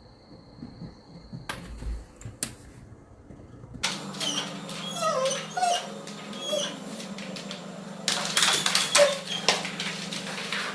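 Short, high gliding cries from a small pet animal, repeated many times over a steady low hum, starting about four seconds in after a cut. Before that there is only a faint thin high tone and two clicks.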